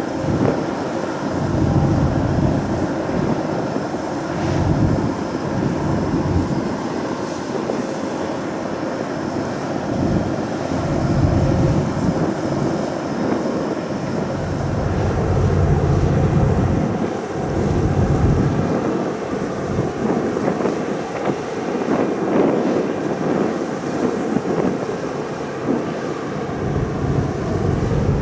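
Wind buffeting the microphone in uneven gusts over the steady running noise of the ferry "Mishima" and the sea.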